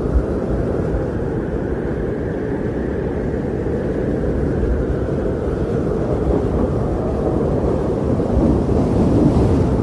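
Strong blizzard wind blowing as a steady, deep rush, with a gust swelling higher in the middle and another near the end.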